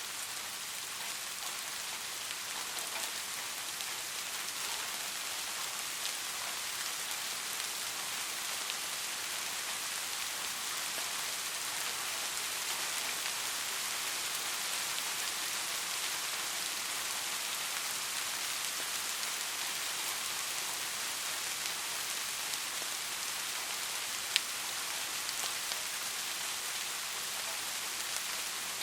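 Steady rain falling on a street: an even, dense hiss with fine scattered drop ticks. One sharp, louder tick stands out about four seconds before the end.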